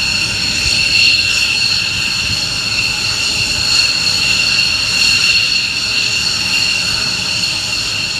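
F-15 fighter's jet engines running steadily: a loud high-pitched whine made of several steady tones over a wide rushing noise.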